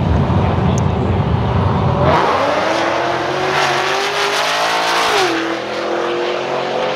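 Drag race car running hard down the track: a heavy low rumble, then an engine note that climbs for a few seconds, drops sharply about five seconds in and then holds steady.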